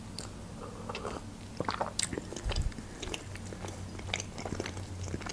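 Close-miked mouth sounds of eating: a sip from a mug, then chewing a soft jam-filled bun, with many small wet clicks and smacks.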